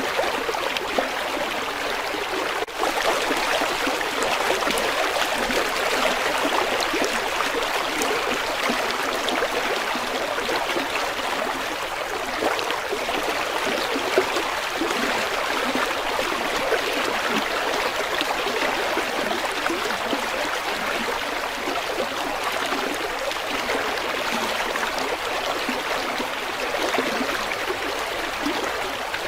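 River water flowing steadily, a continuous rush with many small splashes and gurgles.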